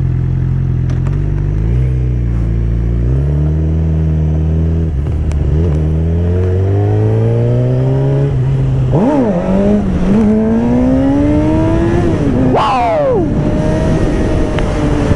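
Suzuki GSXR 600 inline-four engine with an M4 slip-on exhaust, under way and accelerating: after a few seconds at steady revs the pitch climbs, drops at a gear change about nine seconds in, climbs again and drops at another shift a few seconds later, then holds steady.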